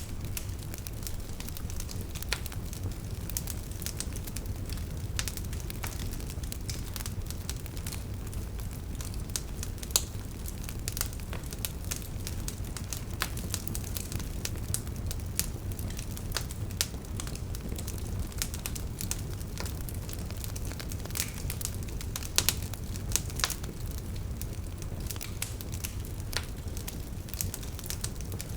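Campfire burning with a steady low rumble and irregular sharp crackles and pops of burning wood, a few louder snaps among them.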